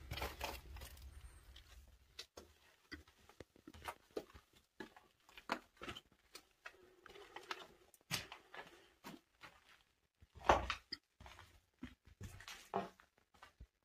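Faint, irregular footsteps and scuffs on stone steps and a gritty, debris-strewn cellar floor, with small knocks. The loudest comes about ten and a half seconds in.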